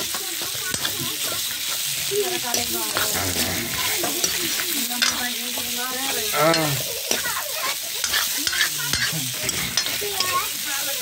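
Chicken pieces frying and sizzling in oil in a metal wok, stirred with a metal spoon that scrapes and knocks against the pan over and over.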